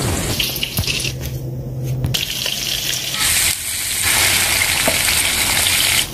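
Eggplant slices sizzling in hot oil in a frying pan, then onions and tomatoes sizzling as a spatula stirs them in a pan.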